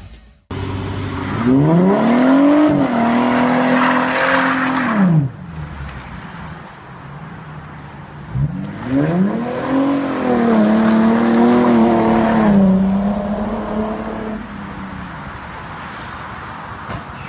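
A car engine accelerating twice: each time its pitch climbs quickly, holds steady for a few seconds, then drops away as the engine eases off.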